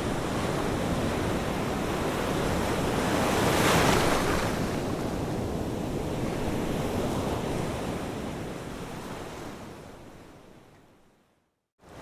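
Ocean surf washing ashore, with one wave breaking loudest about four seconds in. The surf then fades out to a moment of silence near the end and comes straight back in, as at a loop point in the recording.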